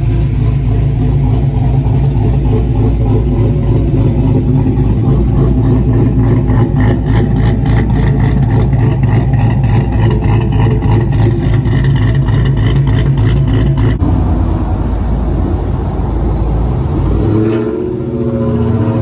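Vehicle engine running loudly and steadily with a fast even pulse. The sound changes about 14 seconds in, and near the end the pitch climbs as it revs.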